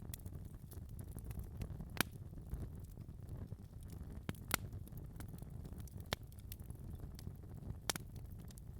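Wood fire crackling in a fireplace: irregular sharp pops and snaps, the loudest about two, four and a half and eight seconds in, over a low steady rumble of the flames.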